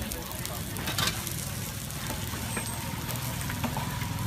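Food sizzling as it fries on a hot pan or griddle, steady, with a few short clicks of utensils, the clearest about a second in.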